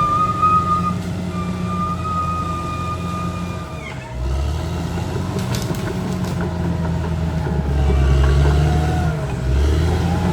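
Caterpillar D6R XL bulldozer running, its engine hum carrying a high steady whine. About four seconds in the whine stops and the engine note dips, then comes back stronger and is loudest a little before the end.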